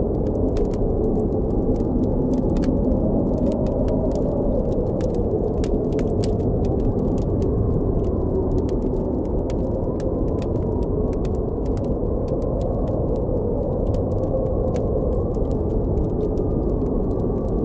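Steady blizzard wind with a low, wavering howl, and the frequent small pops and crackles of a campfire over it.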